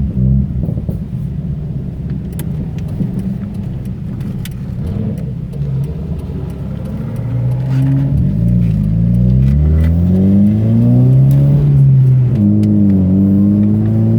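Car engine running under way, rough and uneven for the first several seconds, then revving up and down, dropping sharply once near the end as if shifting gear and climbing again. Short clicks and rattles from bumps in the road come through throughout.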